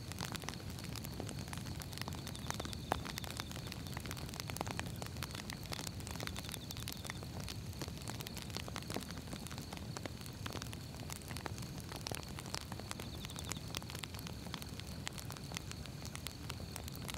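Wood fire burning, with steady irregular crackling and popping over a low rumble of flames; one louder snap about three seconds in.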